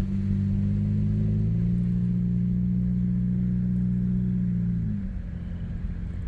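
Car engine running with a steady low hum while driving; its pitch shifts slightly about a second and a half in, then drops and eases off near the end.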